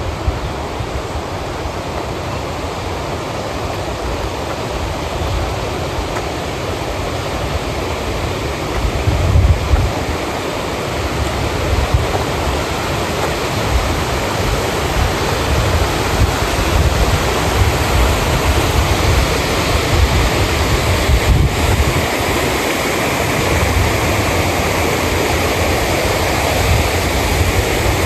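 Steady rushing water noise, with uneven low rumbles of wind buffeting the microphone.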